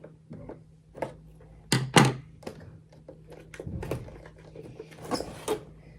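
Scissors cutting at a cardboard box's packaging, with scattered clicks and knocks as the box is handled; the loudest knock comes about two seconds in.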